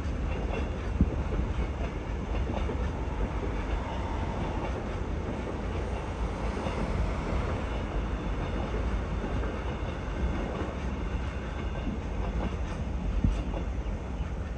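Passenger train rolling past: a steady low rumble of wheels on the rails, with a few faint clicks.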